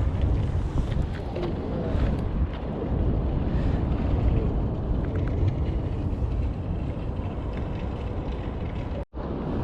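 Wind buffeting the microphone, a steady low rumble, with the sound cutting out for an instant near the end.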